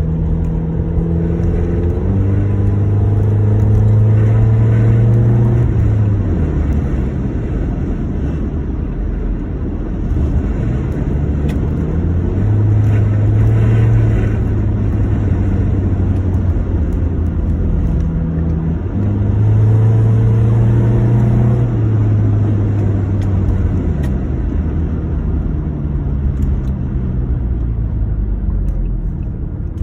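2009 Honda Accord engine idling and revved up and held three times, each time settling back to idle. The owner puts its sound down to an intake and exhaust leak.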